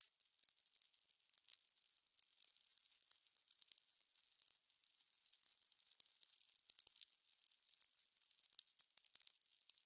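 Fire crackling: a dense, irregular run of small pops and snaps, all thin and high-pitched with no low rumble.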